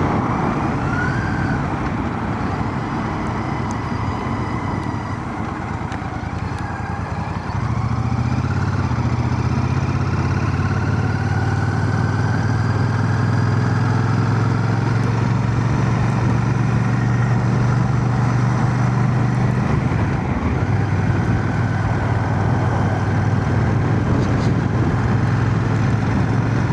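Royal Enfield Shotgun 650's parallel-twin engine running under way, heard from inside a full-face helmet over wind noise. The engine note grows louder about seven seconds in and dips briefly about three-quarters of the way through.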